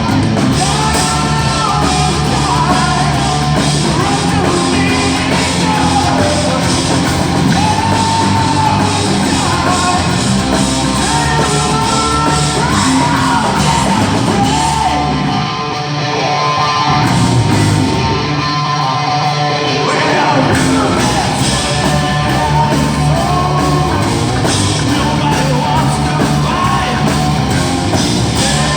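Live rock band playing loud, heavy rock with a singer's voice over guitars, bass and drums. The bass and the top end drop out briefly twice about halfway through, then the full band comes back in.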